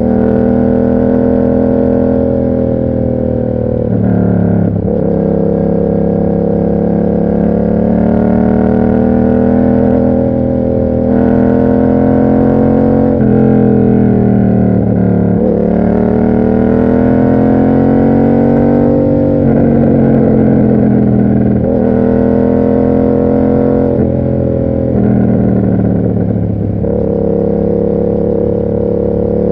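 Yamaha MT-07's parallel-twin engine running through an SC Project aftermarket exhaust under way. The pitch climbs, drops sharply at each gear change and climbs again, several times.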